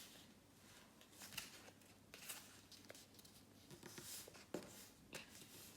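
A sheet of paper being handled and folded by hand: faint, scattered rustles and soft crinkles as flaps are opened and creased.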